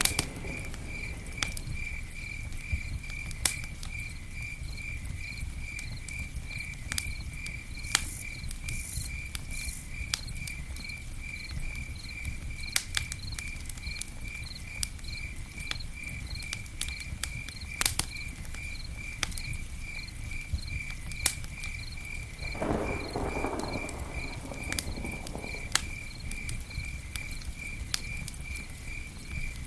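Campfire burning with irregular sharp crackles and pops over a low steady rush. An insect chirps steadily at a high pitch, about three chirps a second, throughout.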